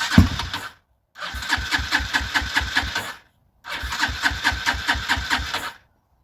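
Honda CG125's electric starter cranking the engine in three bursts: a short one, then two of about two seconds each, with an even chugging beat. The engine turns over but does not fire; the battery turns out to be flat.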